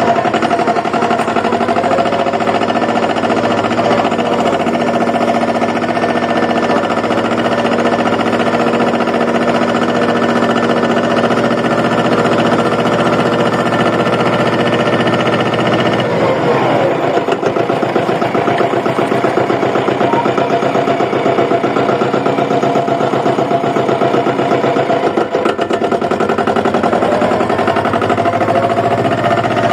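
Compact tractor engine running steadily under way, its note changing about sixteen seconds in to a quicker, pulsing beat.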